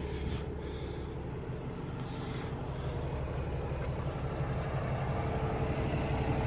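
Cummins X15 inline-six diesel in a Peterbilt 579 idling steadily at operating temperature, a low hum that grows slightly louder toward the end.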